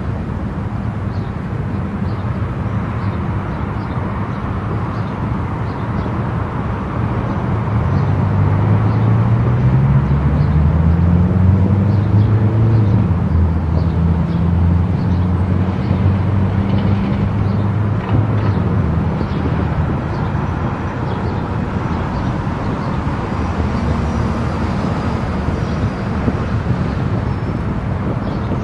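Steady tyre and wind noise from a car driving at highway speed. About seven seconds in, a louder low engine drone rises in pitch and holds, then fades away about twenty seconds in. Faint ticks recur about once a second over the road noise.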